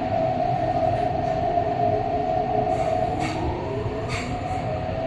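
MTR East Rail line train running, heard inside the carriage: a steady rumble of wheels on the track under a constant whine, with a few short high hisses or squeals in the second half.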